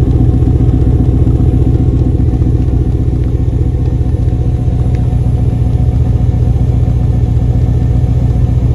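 Chevrolet K1500 Suburban's V8 engine running steadily and loudly, with an even low throb and no revving.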